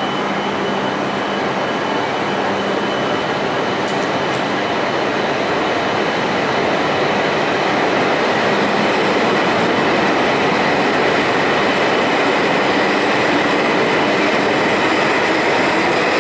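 E5 series Shinkansen train pulling along the station platform and gathering speed, a steady rush of rolling and running noise. It grows a little louder about seven seconds in, as a higher whine comes up.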